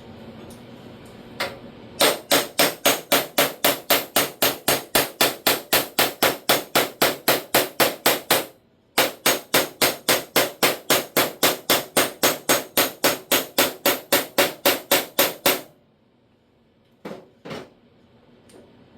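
A hammer striking the steel sheet metal of a car door panel in steady, sharp blows, about four a second, in two long runs with a brief pause between them; two quieter knocks follow near the end.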